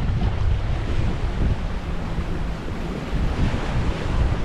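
Waves washing on a beach, with wind rumbling steadily on the microphone.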